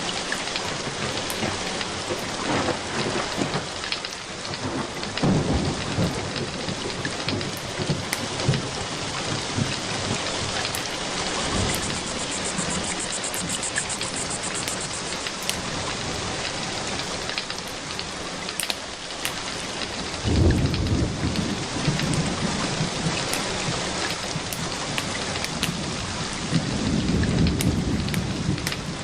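Steady rain with sharp crackles from a wood fire, and three low rolls of thunder that swell and fade: about five seconds in, about twenty seconds in, and near the end.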